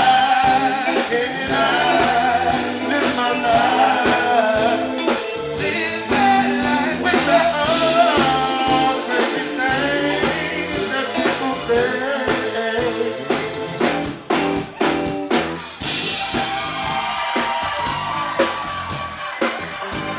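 Live band music: a singer's wavering vocal runs over a steady drum beat.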